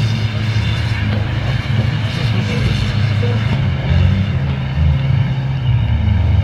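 Jeep Grand Cherokee's engine revving hard under load as it climbs a steep gravel slope, the pitch stepping up and down several times.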